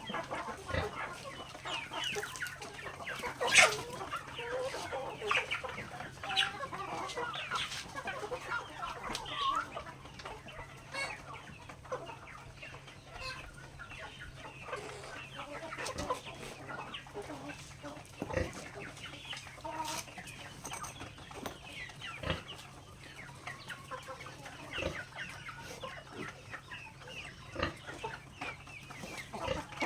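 Native chickens clucking softly while feeding, mixed with scattered sharp taps of beaks pecking at grain on the ground. One louder tap or knock comes about three and a half seconds in.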